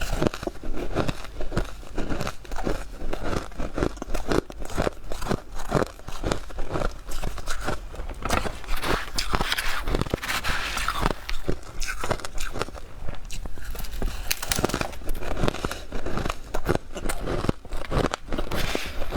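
Soft, powdery freezer frost being bitten and chewed close to the microphone: a steady run of short crackly crunches.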